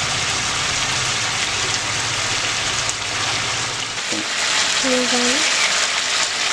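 Chicken curry frying in a metal pan: a steady sizzle of meat, potatoes and onions cooking in oil with ground spices.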